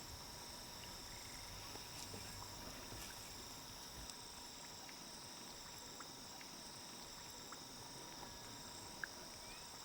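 Faint, steady high-pitched chorus of insects, crickets or similar, in swamp ambience, with a few small ticks and a brief bird-like note near the end.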